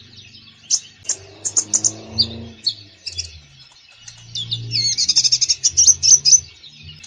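Common iora (konin) singing a busy, varied song of sharp chirps and short trills, with a dense run of rapid notes about five seconds in. A lower, muffled sound sits underneath at times.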